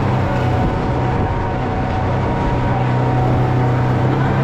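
Boat engine running steadily with a constant low hum and rushing noise.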